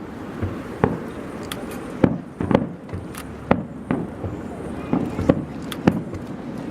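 Fireworks going off in a rapid barrage: sharp bangs and cracks, irregularly spaced at about one to two a second, each with a short echo.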